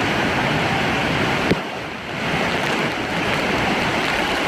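Rushing water of a rain-swollen, overflowing stream: a steady rush of noise, with a short knock about a second and a half in and a brief drop in level just after.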